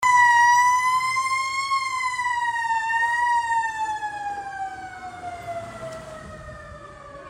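Emergency vehicle siren sounding one steady wailing tone that wavers slightly for about three seconds, then slides steadily lower in pitch and fades away.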